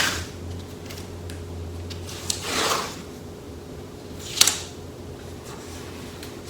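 A few short handling sounds while seam sealer and masking tape are worked by hand: a brief rustle at the start, a longer scraping rustle a couple of seconds in and a sharp click about two thirds of the way through, over a steady low hum.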